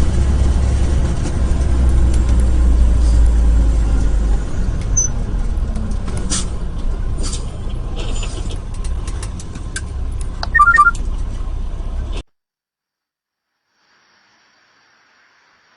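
Vehicle driving noise picked up by a dashcam: a steady low rumble with scattered light clicks, a few quick beeps about ten and a half seconds in, then the sound cuts off suddenly about twelve seconds in, leaving near silence.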